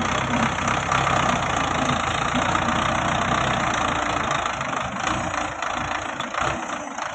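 Belarus 510 tractor's diesel engine running steadily with a dense mechanical clatter, easing off slightly near the end.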